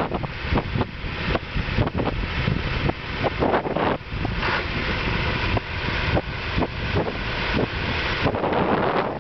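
Heavy-equipment engine running outdoors, heavily buffeted by wind gusting on the microphone.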